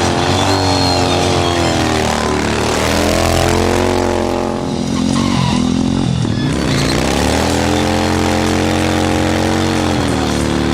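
Harley-Davidson XR-750 V-twin motorcycle engine revving, its pitch climbing and dropping several times, then held high for a few seconds before falling near the end.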